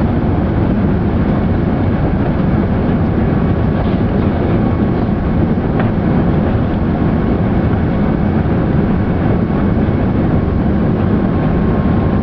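Steady rumble and rush of an Airbus A380's engines and airflow heard inside the passenger cabin, with a faint steady whine over it.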